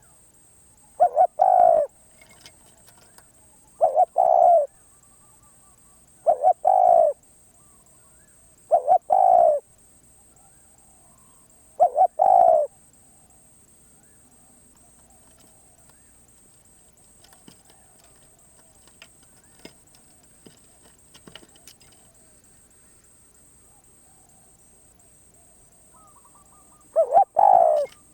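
Spotted dove cooing: six two-part coos, one every two to three seconds, then a pause of about fourteen seconds with only faint clicks, and one more coo near the end.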